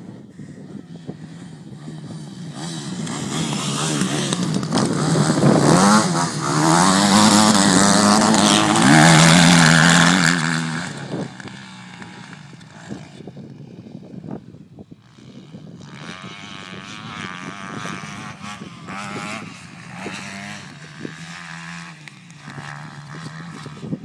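Motocross dirt bike engine revving up and down through the gears. It grows louder over the first few seconds, is loudest around the middle, then fades. It is heard again more faintly later on.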